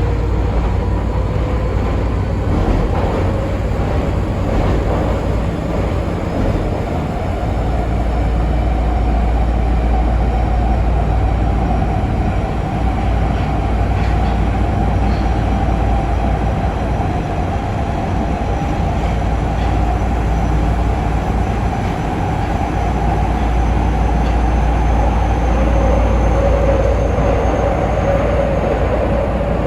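Nagoya Municipal Subway Higashiyama Line 5050-series train running, heard from inside the car: a steady rumble of wheels on rail with a continuous hum and a faint high whine that rises slowly.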